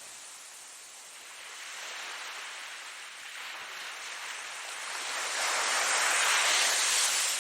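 Ocean waves washing onto a shore, the surf building to a louder wave near the end.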